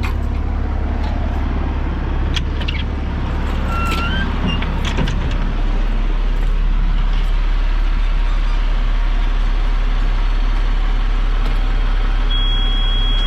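Komatsu D39PX bulldozer's diesel engine running steadily, its low note shifting and getting slightly louder about five seconds in. A few clicks sound in the first half, and a steady high beep starts near the end.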